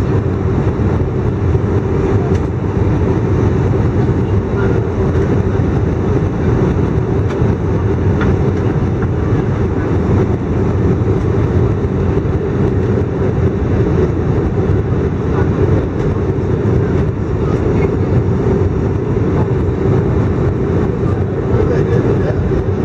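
Steady in-flight cabin noise of an Airbus A319 airliner: an even rush of engines and airflow with a constant low drone.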